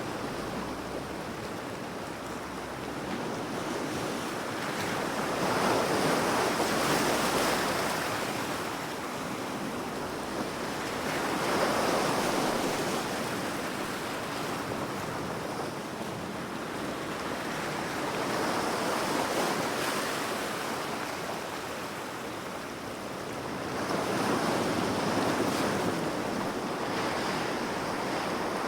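Ocean waves breaking and washing on the shore, a steady surf rush that swells with each wave roughly every six seconds.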